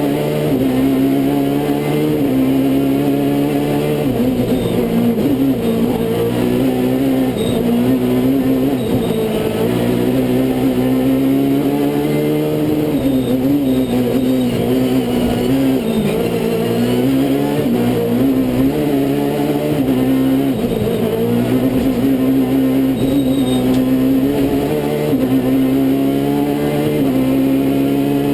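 Kit Car class rally car engine running hard at high revs, its pitch dipping and climbing back up every few seconds as it shifts through the gears and comes on and off the throttle.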